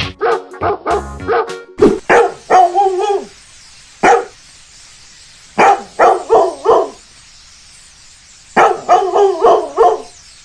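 A dog barking in several bursts of a few sharp barks each, with pauses of a second or two between the bursts.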